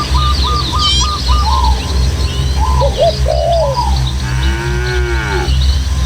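Several birds singing and chirping: a fast run of short repeated notes for the first second or so, then scattered high chirps and whistles. A longer, lower call rises and falls about four seconds in, over a steady low rumble.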